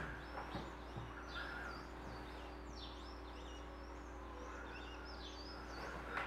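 Small birds chirping faintly, many short quick calls, over a low steady hum of room tone.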